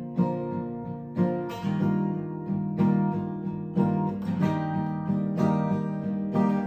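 Acoustic guitar strummed in a steady rhythm of ringing chords, with no singing.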